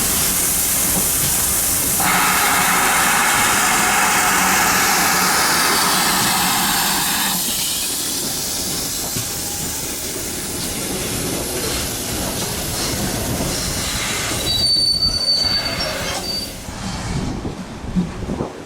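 Train running on the rails: loud rushing wheel noise that fades after about seven seconds, then a brief high-pitched wheel squeal about fifteen seconds in.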